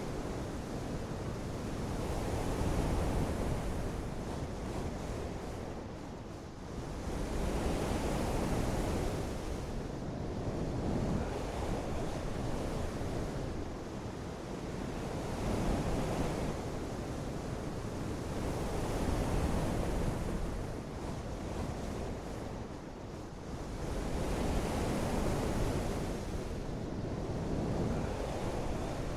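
Rushing water noise that swells and fades every four to five seconds, with no voices or tones.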